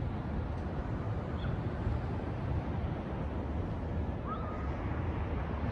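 Steady low rumble of road and wind noise from a car driving, with one short faint chirp about four seconds in.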